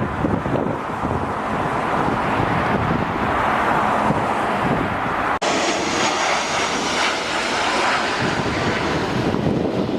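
Jet airliner engines passing close by, a loud steady roar that swells toward the middle, with a faint slowly falling whine in the second half. The sound cuts out for an instant about halfway through.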